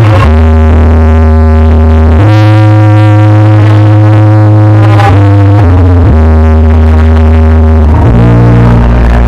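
Very loud DJ remix music blasting from a 'sound horeg' sound system, with heavy sustained synth-bass notes that change pitch every second or two.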